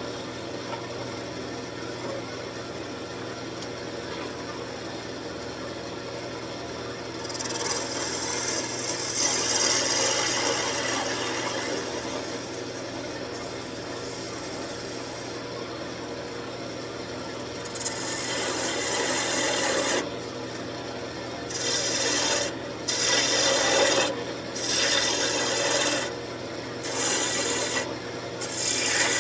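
Wood lathe running with a steady low hum while a turning gouge cuts the spinning wooden blank. The scratchy cutting comes and goes: one long cut about a quarter of the way in, then a run of short cuts with brief pauses over the last third.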